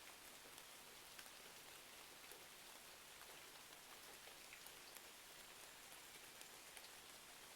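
Faint, steady rain and a crackling wood fire: an even hiss dotted with scattered small, sharp pops and ticks.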